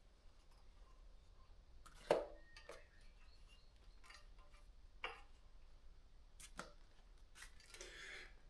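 Bicycle seat post and saddle being fitted into the frame: a few scattered light clicks and knocks of metal parts, the loudest about two seconds in, and a brief rubbing near the end.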